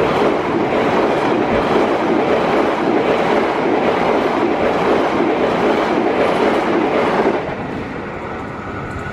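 Passenger train coaches rushing past at close range, a loud, dense noise of wheels running over the rails. It drops off about seven seconds in as the last coach clears, leaving a quieter background noise.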